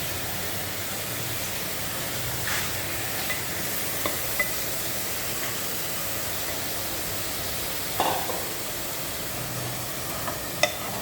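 Chicken pieces frying in oil with onion and tomato, a steady sizzle, with a few short scrapes of a spoon stirring the pan. The chicken is just starting to cook.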